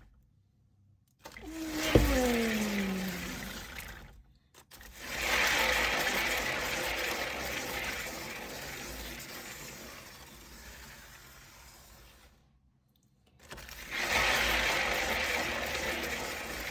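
Cake-decorating turntable spun by hand, a whirring hiss that fades as it slows, heard three times with short breaks between. About two seconds in there is a sharp click followed by a short falling squeak.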